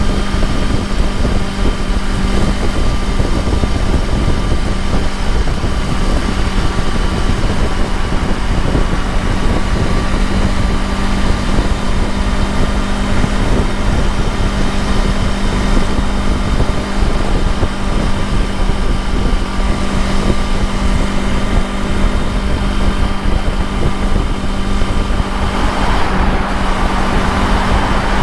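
Motorcycle engine running steadily at highway cruising speed under rushing wind noise; a louder rushing hiss swells up near the end.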